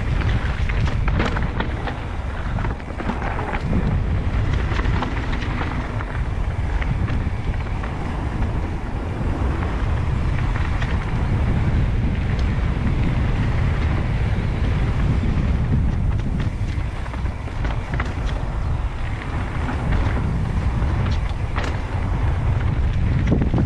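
Wind buffeting the microphone over the rumble of mountain bike tyres on a dirt trail at speed, with scattered clicks and rattles from the bike.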